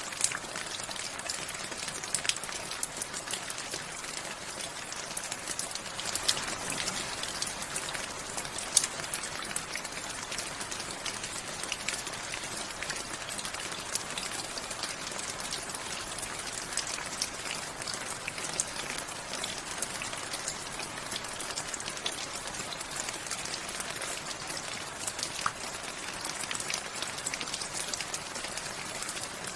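Steady rainfall, an even hiss with many sharp, distinct drop ticks landing on a nearby surface.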